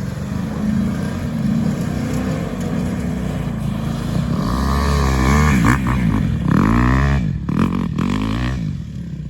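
A motor vehicle's engine running steadily, then revving up and down repeatedly from about four seconds in, with a few knocks near the end.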